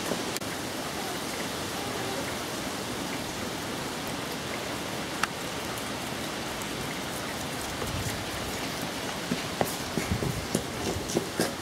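Steady rain falling, an even hiss, with a growing scatter of sharp taps and ticks near the end.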